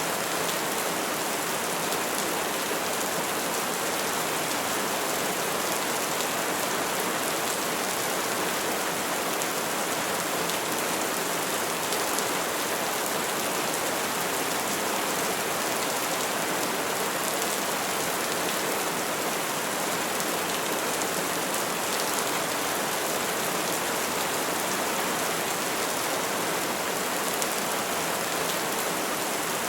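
Steady rain falling on trees, an even hiss of drops on leaves that keeps the same level throughout.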